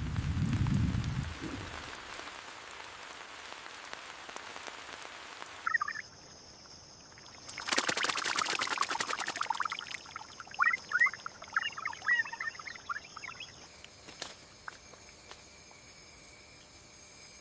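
Nature ambience with bird calls. A steady hiss cuts off about a third of the way in. Then come short high chirps, a rushing burst of noise around the middle, and a run of chirping calls over faint steady high tones.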